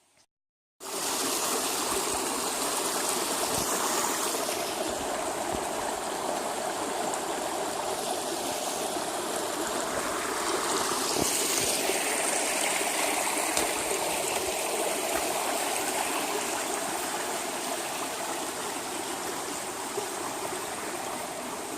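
A stream running steadily: an even rush of flowing water that starts abruptly about a second in.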